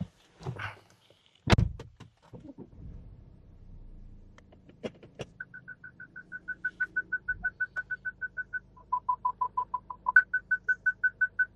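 A heavy thud, then a low steady hum, then rapid short electronic beeps, about five a second. The beeps drop to a lower pitch for about a second near the end, then return to the higher pitch and cut off suddenly.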